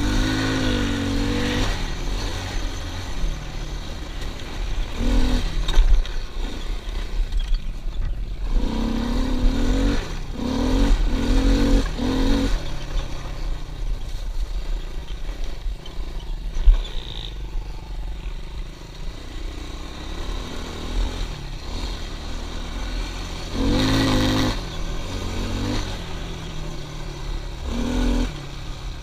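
Pit bike engine running as the bike is ridden, revving up in short bursts several times, over a steady low rumble.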